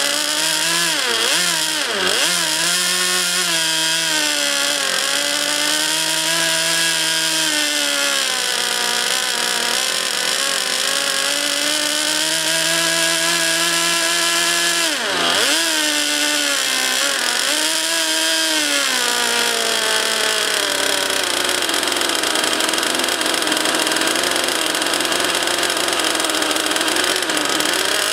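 RC jet model's engine running continuously. Its pitch drops sharply and comes back up a few times as the throttle is worked. In the last third it settles into a smoother, even rush.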